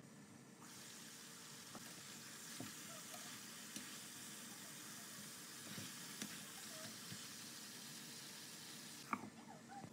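Tandoori-marinated chicken pieces sizzling in oil in a frying pan, with a few light taps of a spatula as they are turned. The sizzling starts about half a second in and cuts off near the end after a sharp click.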